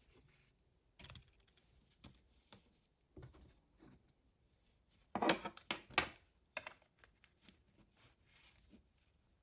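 Quiet handling of a sketchbook and graphite pencils: scattered taps and short paper rustles, with a louder cluster of rustling about five to six seconds in.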